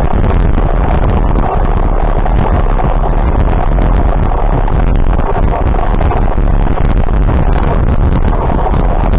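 Steady, loud running noise of a vehicle on the move, heavy in the low end, with wind buffeting the microphone.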